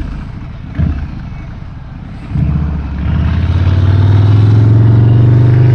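Harley-Davidson FXDR's V-twin engine pulling away under throttle. About two seconds in, the engine note comes up loud and climbs slowly in pitch as the bike accelerates, with a short thump just before.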